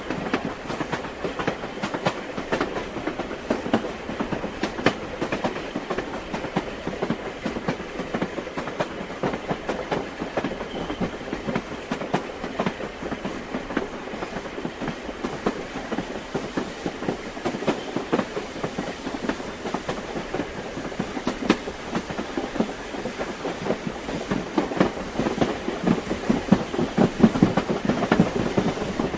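Train wheels clattering over rail joints: a steady, continuous clickety-clack of a moving railway carriage, a little louder near the end.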